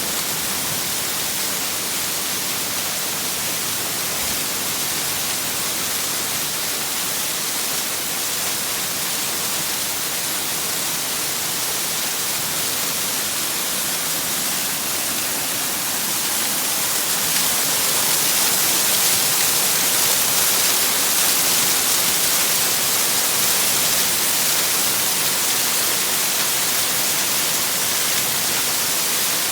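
Rain-swollen runoff pouring down like a waterfall: a steady rush of water that grows a little louder just past halfway.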